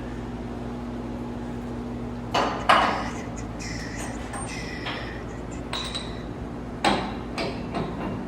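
Metal tools or parts clanking in an auto repair shop: two sharp clanks with a metallic ring, then after a few seconds three more, over a steady low hum.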